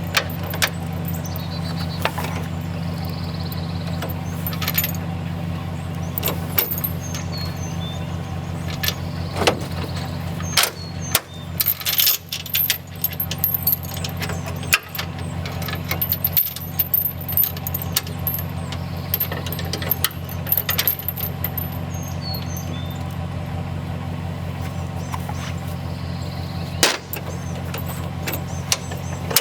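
A vehicle engine running steadily under way, with frequent rattles, clicks and knocks from loose parts, thickest around the middle.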